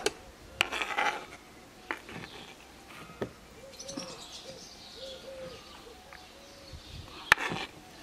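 Birds calling outdoors: faint high chirps and a run of short low notes through the middle. Several sharp clicks and knocks come in between, the loudest a little after seven seconds in.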